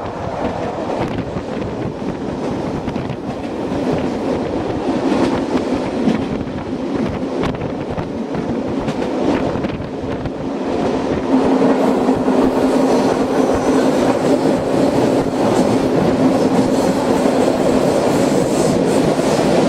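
A mountain railway train running on its track, with wheel clatter and a steady hum. It gets louder about eleven seconds in.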